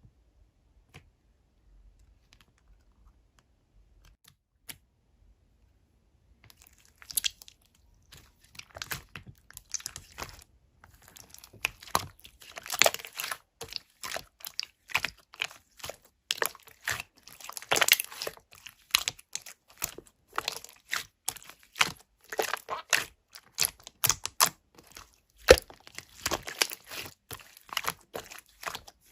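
Close, irregular crinkling and crunching, like something being crumpled or torn. It starts about seven seconds in, after near silence broken by a few faint clicks, and grows denser and louder.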